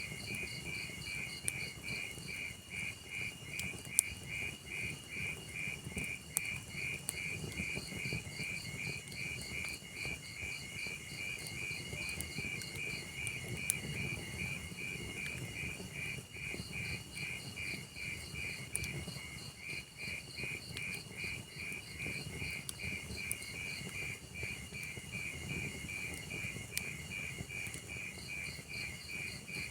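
Crickets chirping in a steady, even train of chirps, over a low rumble of burning wood logs with a few sharp crackles and pops.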